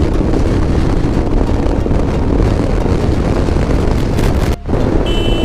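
Wind buffeting the microphone of a motorcycle riding at highway speed, with engine and road noise underneath. The sound cuts out for a split second about four and a half seconds in, and a short high beep sounds near the end.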